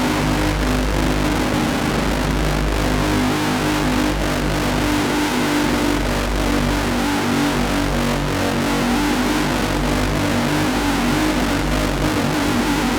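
Novation Circuit groovebox playing a noisy drone from the Howl preset pack: a dense wash of noise over low droning tones, holding a constant loudness.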